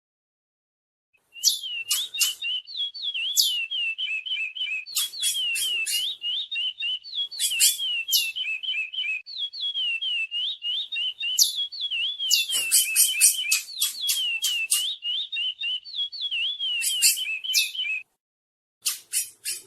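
Curió (chestnut-bellied seed finch) singing a long, unbroken song of quick whistled notes that roll up and down, mixed with sharp high chips. It starts about a second in, stops near the end, and a few short notes follow.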